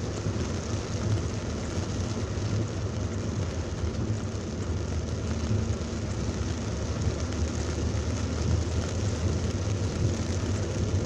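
A car driving in heavy rain: a steady low rumble of engine and tyres under an even hiss of rain.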